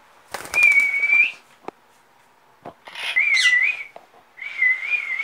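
Whistling: three held notes at about the same fairly high pitch, each lasting about a second. The first is steady, the second warbles up and down, and the third wavers slightly.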